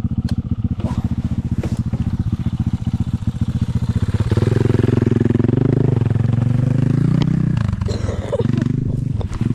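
Off-road vehicle engine idling with a rapid, even chug. About four seconds in it gets louder and revs up, its pitch rising, then falling away again near the end.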